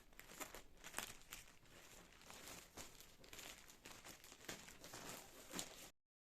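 Crinkling and rustling of something being handled, with irregular crackles; it cuts off abruptly near the end.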